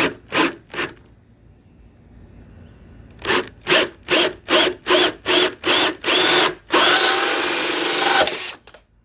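Power drill finishing a hole through car body sheet metal. The trigger is pulsed in short bursts, three at first and then a quick series of about two a second. It is then held down for nearly two seconds with a steady motor whine.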